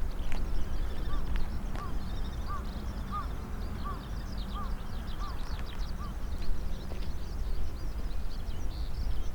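Wild birds calling: one bird gives a run of about eight short, evenly spaced arched notes over a few seconds, while smaller birds chirp high and busily throughout, over a steady low rumble.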